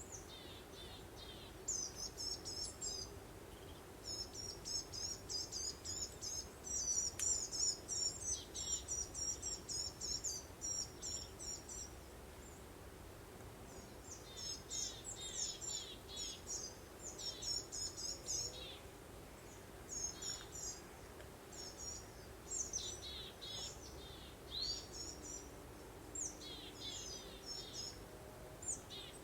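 Songbirds chirping and trilling in quick runs of high notes, over a soft steady breeze.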